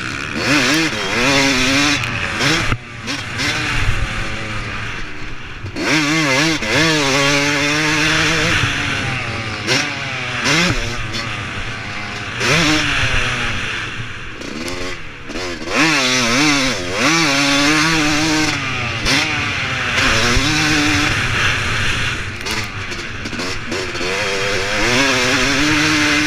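Yamaha YZ250 two-stroke motocross engine, bored out to 300, heard from on board the bike, revving up and dropping back over and over as the bike is ridden round the track. Its pitch climbs and falls again every second or two, with a few short dips in level.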